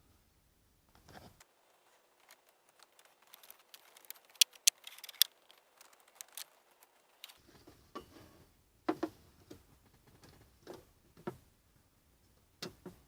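A string of sharp clicks and light knocks, as of objects being handled: a quick cluster of loud clicks about four to five seconds in, then a few single knocks spaced out near the end.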